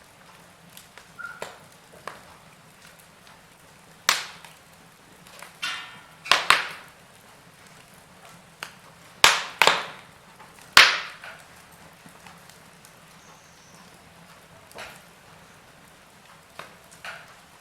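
Burning logs crackling in a fireplace: irregular sharp snaps and pops, a handful of them loud through the middle, with smaller ticks between, over a faint steady hiss.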